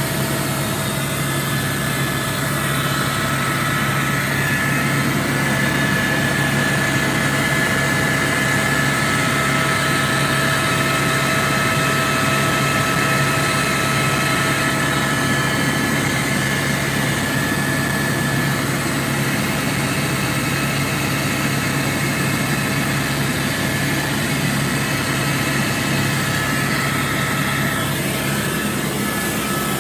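Helicopter in flight heard from inside the cabin: a steady engine and rotor drone with several held whining tones over it, shifting slightly near the end.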